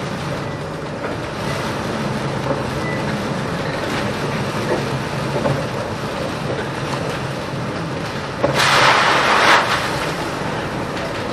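Boat engine droning steadily under wind and sea noise, with a loud rush of water, a wave or spray striking, about eight and a half seconds in that lasts about a second.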